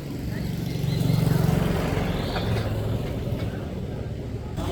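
A vehicle engine running steadily, loudest about a second in and then easing off.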